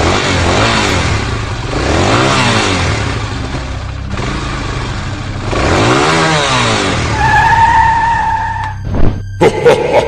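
Vehicle engine revving up and down several times, then a high tyre squeal, and a few sharp knocks near the end.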